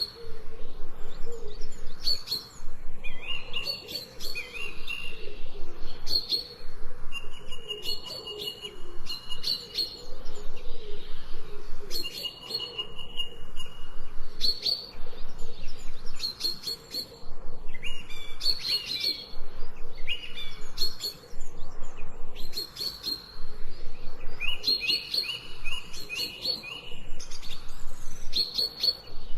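Several birds chirping and singing in repeated short phrases with brief pauses between them, some phrases with a longer held whistled note, over a fainter lower warbling.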